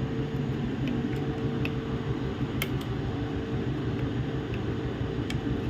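Steady hum of a fan or air conditioner running in a small room, with a few faint sharp clicks, two clearer ones about halfway through and near the end.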